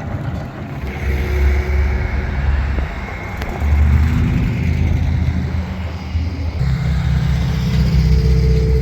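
A car engine running with a deep, low rumble that gets louder about a second in and again near four seconds.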